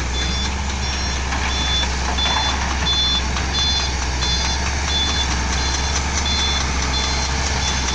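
A heavy construction vehicle's reversing alarm beeping steadily, about one and a half high beeps a second, over the low, steady running of its diesel engine.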